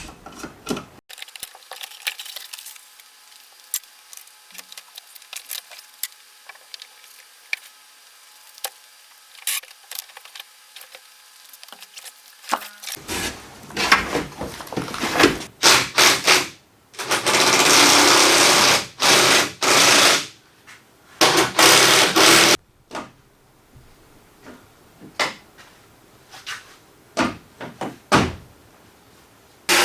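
Power tool running in several short bursts and one longer run, as the truck cab's seat-belt bolts and trim are taken out, with scattered clicks and knocks in between.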